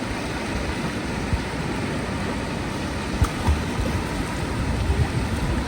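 Surf washing over a shallow reef shore, a steady rushing hiss, with a few low thumps a little past halfway and again near the end.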